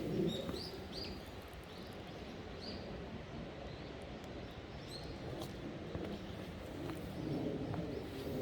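Small birds chirping: short, high calls scattered through the first half, over steady low background noise.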